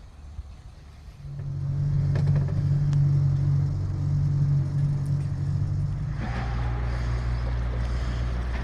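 Shanty boat's engine running steadily under way. About a second in it comes up in level, and about six seconds in its note drops lower while a hiss of water and wind rises with it.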